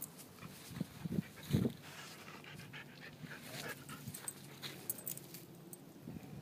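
White husky making a few short, quiet vocal sounds, the husky 'talking' typical of the breed: three brief ones about a second in, a fainter one midway.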